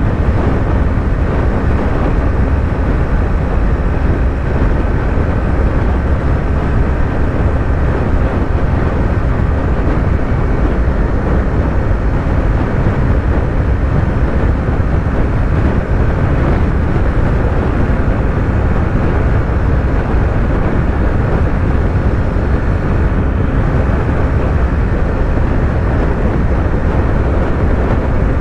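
Yamaha YZF-R3's parallel-twin engine running at a steady highway cruise, with heavy wind rush over it and no rise or fall in revs.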